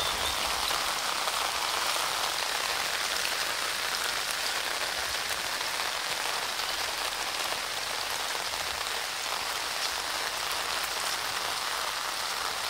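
Heavy rain pouring down in a steady hiss on the ground and surfaces.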